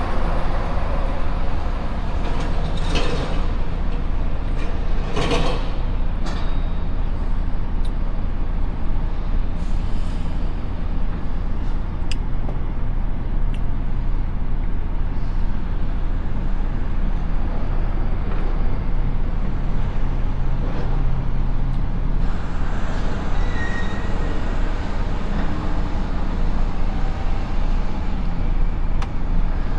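Truck engine running steadily, with two short hisses about three and five seconds in and a few scattered clicks.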